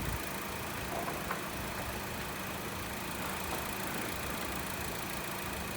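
Honda WR-V's engine idling steadily with the air conditioning running, with a couple of faint clicks about a second in.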